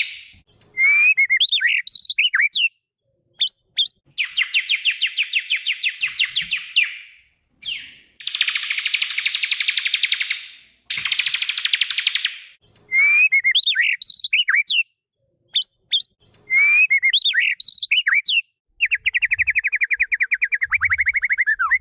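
White-rumped shama (murai batu) song: long runs of fast, evenly repeated trilled notes alternate with short, varied whistled phrases that sweep up and down. The same phrases come round again and again.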